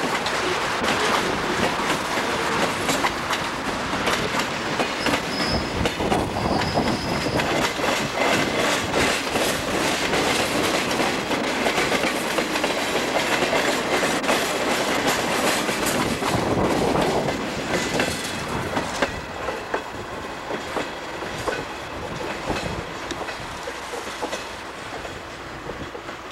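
Freight cars of a Northwestern Pacific train rolling past, their wheels clicking rapidly over the rail joints, with a brief high squeal of wheels on rail. The sound fades away over the last several seconds as the train moves off.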